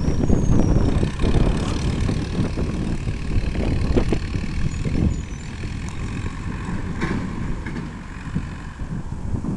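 Massey Ferguson 165 diesel tractor engine running with a rough, low rumble that grows quieter in the second half.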